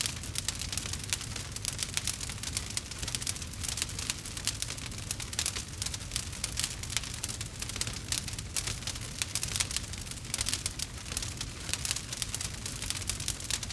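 Wood fire crackling in a fireplace, a dense run of small pops and snaps, over rain pattering and a steady low rumble underneath.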